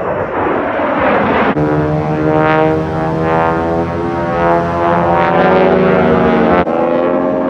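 Aircraft engine noise. A rushing noise gives way abruptly about a second and a half in to a steady, pitched engine drone. The drone changes abruptly again near the end, like edited-together shots of planes in flight.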